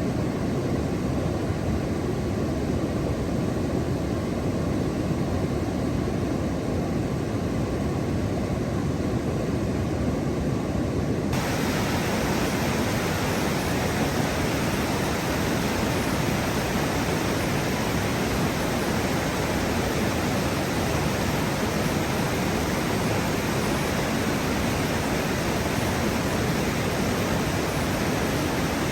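Steady rushing noise with a deep rumble. About eleven seconds in it abruptly turns brighter and hissier, as at a cut to a new recording.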